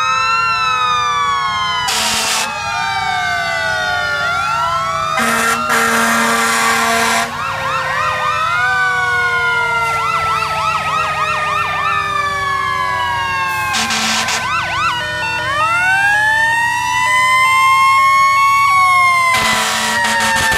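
Several fire engine sirens sounding together, overlapping wails rising and falling in pitch, with a stretch of fast yelp in the middle. Four air horn blasts cut through them, one of them about two seconds long, and the last comes near the end.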